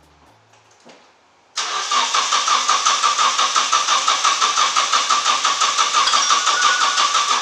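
A Nissan 240SX's KA24 four-cylinder engine cranked on its starter from about a second and a half in, an even rhythmic chugging that never catches and stops near the end. It will not fire because the distributor is 180 degrees out.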